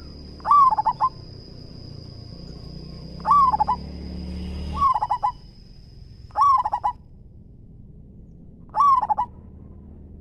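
Zebra dove cooing: five separate phrases, each a curving opening note followed by a quick stuttering run of short notes.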